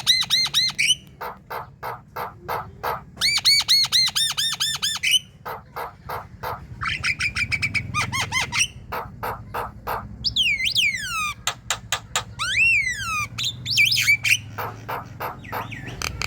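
Javan myna singing a loud, varied chatter. It runs fast trains of repeated harsh chipping notes and clicks, then a few long falling whistles a little past the middle.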